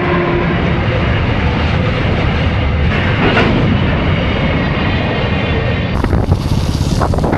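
Steady running noise of a moving vehicle with wind rushing over the microphone; the sound changes abruptly about six seconds in.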